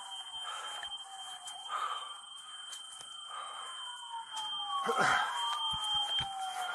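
Emergency vehicle sirens wailing, their pitch sweeping slowly down and up, with two sirens overlapping about five seconds in. A steady high-pitched tone runs underneath.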